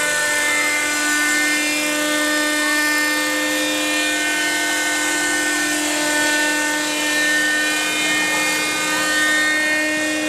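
Glow-fuel engine of a Shuttle radio-controlled model helicopter running steadily at high revs, a continuous high-pitched buzz that shifts slightly in pitch now and then.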